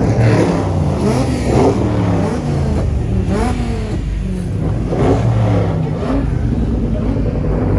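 Car engine revving repeatedly: several quick climbs in pitch that fall back to a low idle rumble between them.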